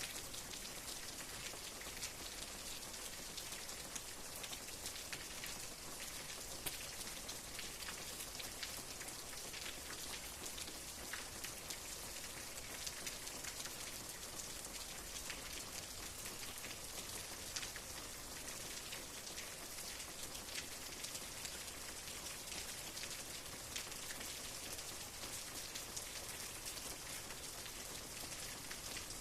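Steady rain falling, a soft even hiss with many small drops tapping on a surface.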